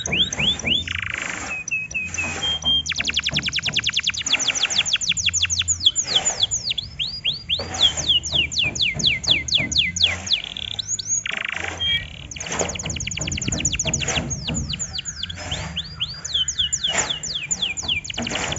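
Canary singing a long, unbroken song: fast trills of falling sweeps, quick runs of rapidly repeated notes and a few short held whistles. It is the kind of canary song played as a lure to set other canaries singing.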